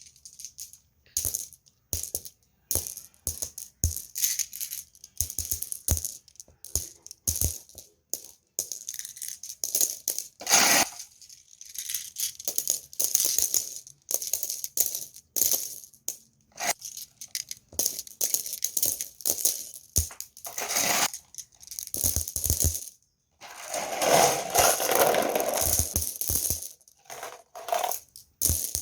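Glass marbles clicking and clattering against one another in quick, irregular bursts, with a longer, denser rattle near the end.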